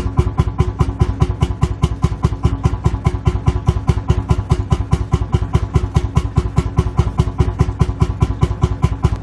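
Lanz Bulldog tractor's single-cylinder two-stroke hot-bulb engine idling, an even, steady beat of about five to six firing pulses a second.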